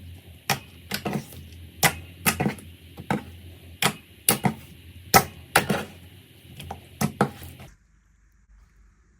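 Slime being handled for ASMR, giving a string of sharp, irregular pops and crackles, roughly one or two a second. They stop abruptly near the end, leaving only faint hiss.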